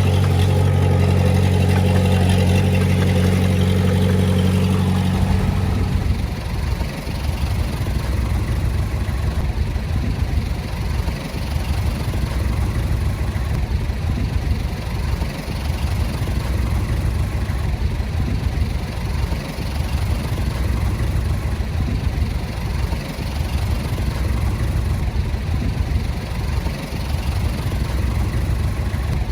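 Heavy-equipment diesel engine running steadily at raised revs, then about six seconds in dropping to a lower, rougher idle that carries on.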